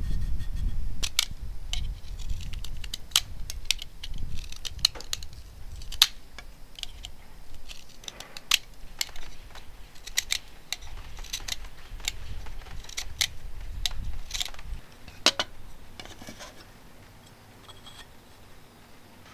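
Irregular sharp clicks and taps of small hard objects being handled, over a low rumble that fades out about 15 seconds in.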